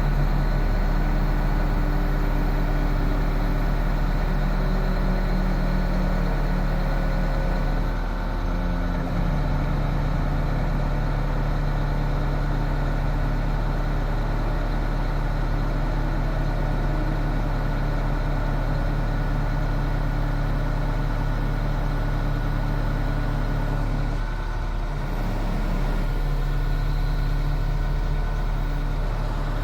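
2001 International 4800 bucket truck's diesel engine idling steadily, its note shifting slightly about 8 seconds in and again briefly near 25 seconds.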